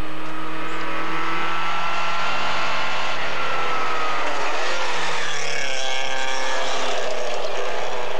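Rally car engine running at high revs. Its pitch drops a little about two seconds in, then climbs again from about five seconds, with a short break near six seconds.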